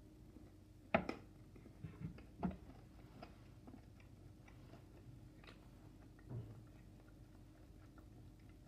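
Quiet chewing of a Toblerone milk-chocolate piece with crushed almonds, with a few soft crunches and clicks, the sharpest about a second in.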